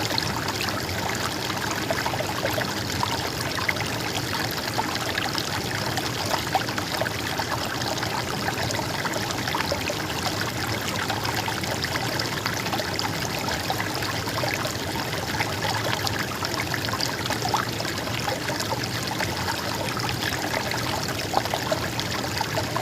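Stream of water babbling and trickling steadily, full of small splashes.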